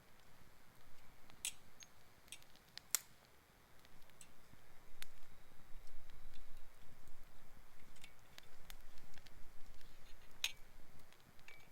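Campfire of gathered forest wood crackling: irregular sharp pops and snaps over a faint hiss.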